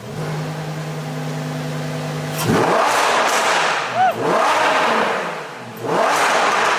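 Lamborghini Huracán Performante's V10, breathing through a newly fitted IPE aftermarket exhaust, idling steadily, then revved hard three times from about two and a half seconds in. Each rev rises and falls in pitch, and there is a sharp crack as the first one starts.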